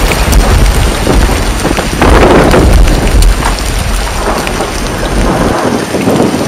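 Heavy rain in a thunderstorm, with many sharp ticks of drops striking and a loud low rumble that fades near the end.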